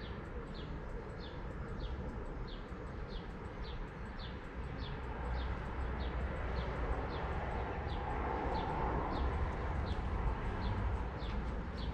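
A bird repeating one short, high, falling call evenly, about one and a half times a second, over a steady low rumble that grows louder in the second half.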